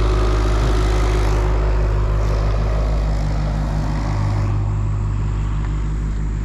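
A large engine running steadily at a low, even pitch, with a hiss over it that fades out about four and a half seconds in.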